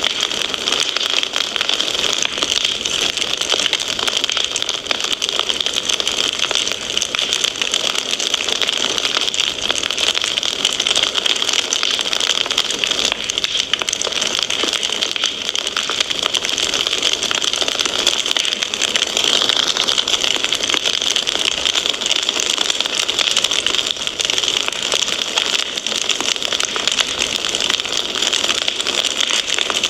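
Fireplace fire crackling steadily: a dense, unbroken run of small pops and snaps over an even hiss.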